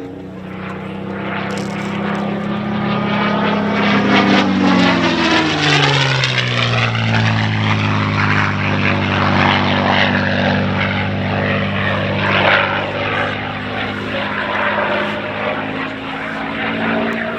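North American P-51D Mustang's V-12 Merlin engine and propeller in a flyby: the engine drone builds as the plane approaches, drops sharply in pitch about four to seven seconds in as it passes, then runs on loud as it pulls away.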